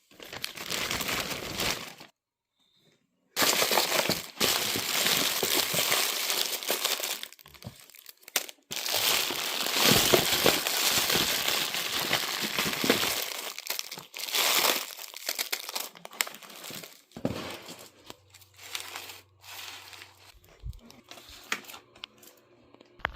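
Candy wrappers crinkling and rustling as they are handled, in long dense stretches broken by a short silence a couple of seconds in, then quieter scattered crackles in the second half.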